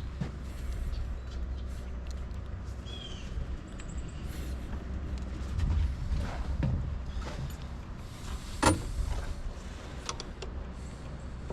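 Scattered knocks and one sharp clank about three quarters of the way through, from hand work on the tractor's battery, over a low steady rumble.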